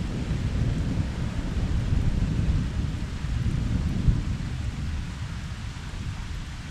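Thunder rumbling low and rolling over steady rain, swelling through the middle with a sharper crack about four seconds in, then dying down.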